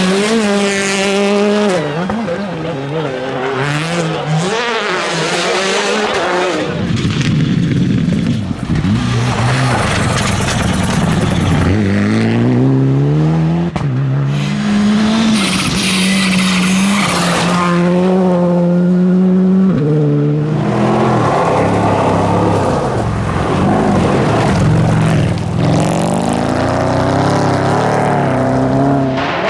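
Rally car engines revving hard, the pitch climbing and dropping again and again through gear changes as the cars run flat out, with tyre and gravel noise underneath. The sound changes abruptly a few times as one car gives way to the next.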